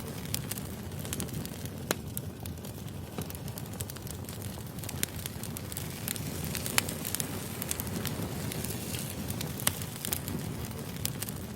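Firewood burning: a steady low rush of flame with scattered sharp crackles and pops, a few of them louder than the rest.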